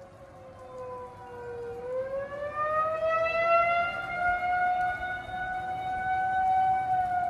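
Outdoor tornado warning siren wailing: its pitch sinks to a low about two seconds in, then climbs again and holds high, growing louder.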